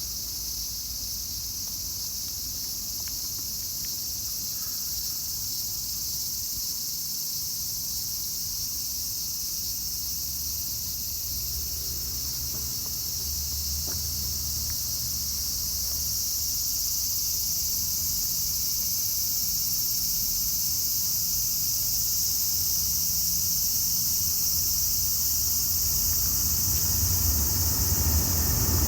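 Steady high-pitched chorus of insects, with a low rumble underneath that grows louder near the end.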